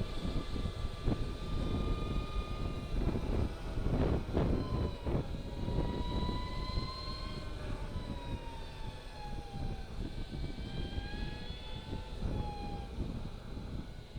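Energica Experia electric motorcycle under way: a high motor whine that rises and falls in pitch with speed, over heavy low wind rumble.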